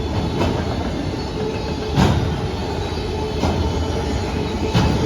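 A train rolling past with a steady rumble of wheels on rail. Its wheels give a sharp clack over the rail joints about every second and a half.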